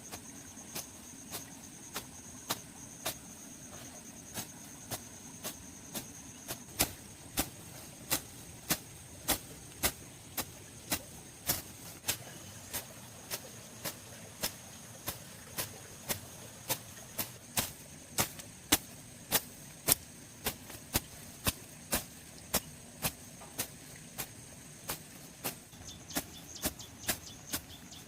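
Sharp knocks repeating evenly, about two a second, over a steady high-pitched insect drone that fades near the end.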